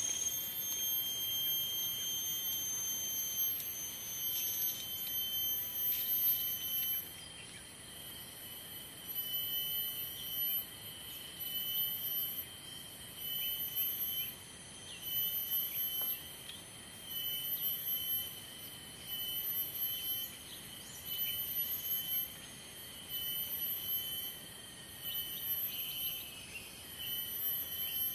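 Insects calling: a high, shrill chorus that swells and drops every second or two.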